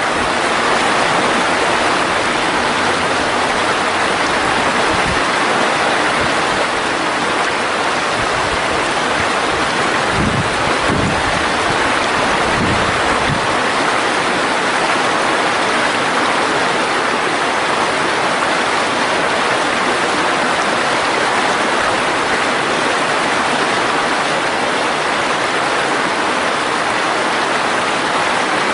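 Mountain valley stream flowing: a loud, steady rush of water. Some low rumbling comes and goes in about the first dozen seconds.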